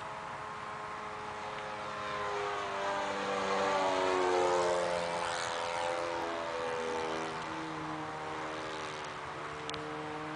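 Radio-controlled model airplane's engine flying past, its pitch rising as it approaches and dropping after it passes, loudest about four to five seconds in.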